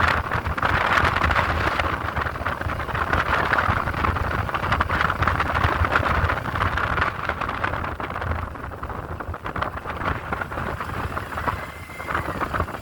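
Wind rushing over the microphone with the motorcycle's engine and road noise underneath, on a moving motorcycle; the rush eases a little in the second half.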